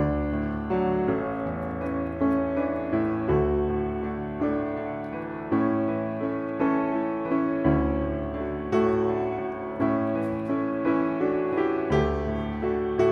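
Background piano music: a gentle melody with notes struck at a steady pace.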